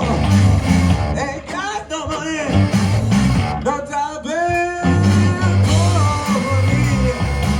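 Live garage-rock band playing a blues, with bending electric-guitar or wailing vocal lines over a steady bass part.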